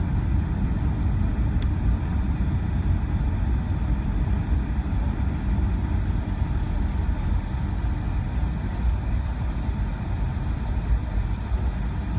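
Steady low rumble inside a Boeing 757-200's cabin as the airliner rolls along the ground after landing, with engine and wheel noise easing slightly toward the end.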